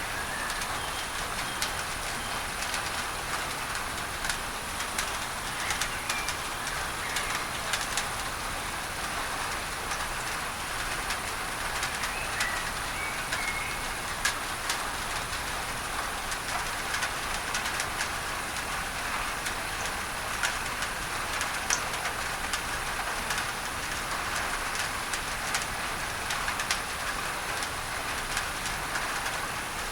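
Steady rain on a tin roof, blended with a masking noise, with many individual drops ticking on the metal. A few faint bird chirps come through in the first half.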